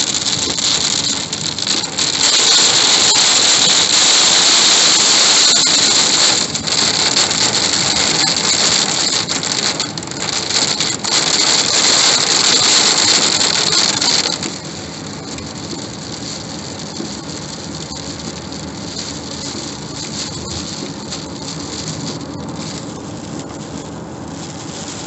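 Heavy rain pelting the car's roof and windshield, heard from inside the cabin as a loud dense hiss with scattered sharp ticks. About fourteen seconds in it drops abruptly to a quieter, steady hiss of lighter rain and tyres on wet road.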